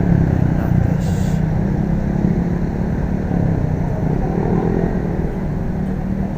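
Steady road-riding noise in city traffic: a constant low rumble of vehicle engine and road noise with a faint steady hum, and a short hiss about a second in.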